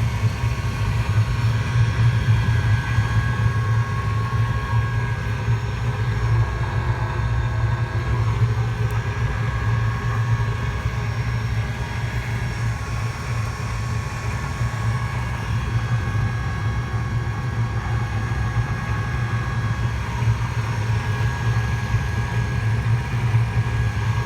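OV-65 24-volt diesel air heater running: a steady deep hum with thin, steady whines higher up.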